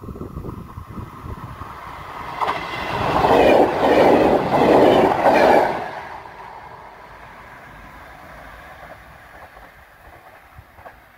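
Electric multiple unit passenger train running past on the rails: the noise builds, wheels clatter over the rail joints for a few seconds at its loudest, then fades about halfway through as the train moves away.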